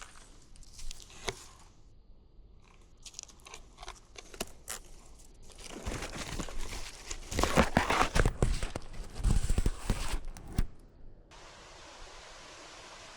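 Crunching, crackling rustle picked up by a camera worn on a moving cat. Scattered clicks at first, then a dense loud stretch of crunching in the middle, then a steady hiss near the end.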